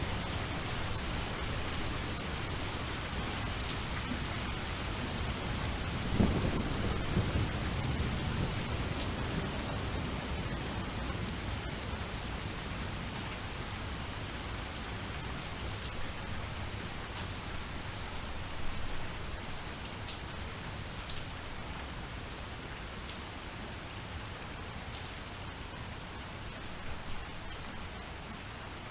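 Steady rain, with a low rumble of thunder rolling in about six seconds in and fading over a few seconds, then a fainter one later.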